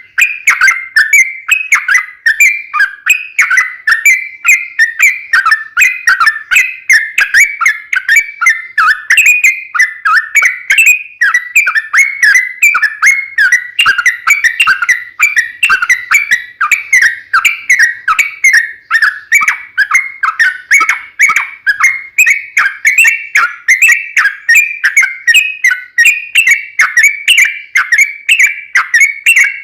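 Yellow-vented bulbul (trucukan) singing a long, unbroken run of rapid chattering, whistled notes, a few notes a second without pause.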